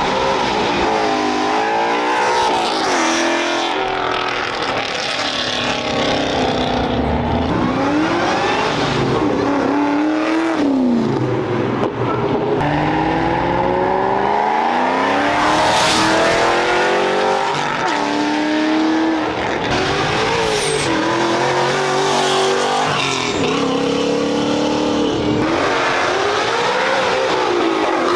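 A car's engine revved hard again and again, its pitch climbing and dropping every couple of seconds, over a steady hiss of spinning tyres in a burnout.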